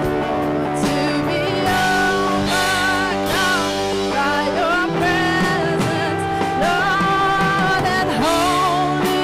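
Live congregational worship music: a band playing held chords under singing, the voice holding long, slightly wavering notes.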